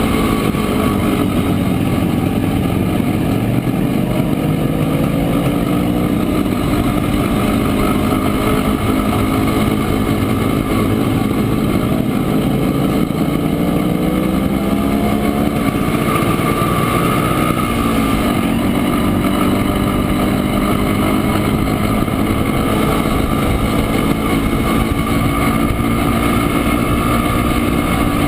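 Montesa Impala 175's single-cylinder two-stroke engine running under way. The note climbs slowly for several seconds, drops briefly past the middle, then rises again and holds steady.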